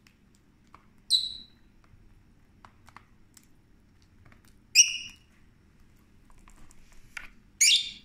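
Small pet parrot giving three short, shrill calls, about three seconds apart, with faint clicks in between.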